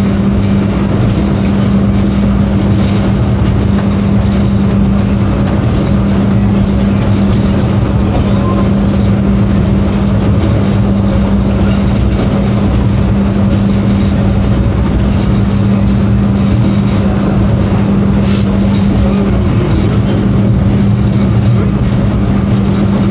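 Steady running noise inside a moving train carriage: a rumble from the wheels and track with a constant low hum throughout.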